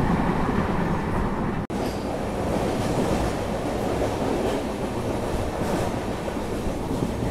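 Running noise inside an LHB passenger coach at speed: a steady rumble of wheels on the rails with faint clicks over the track. The sound cuts out for an instant about one and a half seconds in.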